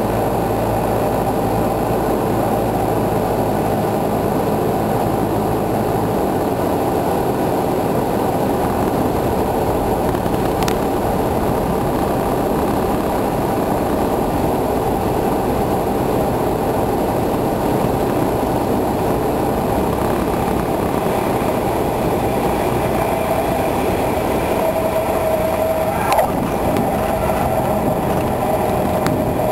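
Cessna 172's engine and propeller running steadily in flight, with wind rush. The low part of the engine note weakens about six seconds in. There is a sharp click about ten seconds in and another near the end.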